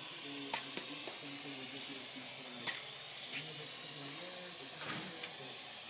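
Parrot AR.Drone quadcopter hovering, its four propellers giving a steady hissing whir with a faint wavering hum that shifts as the throttle changes, and a few brief clicks.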